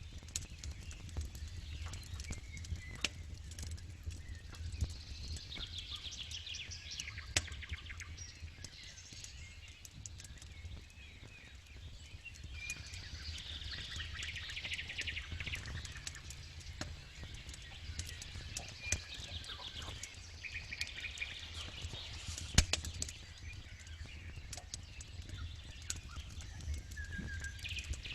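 Campfire crackling, with many small sharp pops of burning wood and one much louder pop about three-quarters of the way through, over a steady low rumble. Birds trill and chirp in the background at intervals.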